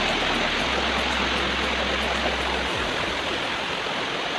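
Waterfall running: a steady rush of falling and flowing water.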